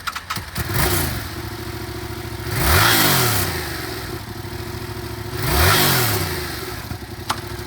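2017 Yamaha FZ-07's parallel-twin engine idling, revved twice with the throttle blipped, about three seconds in and again about six seconds in, each time rising and dropping back to idle.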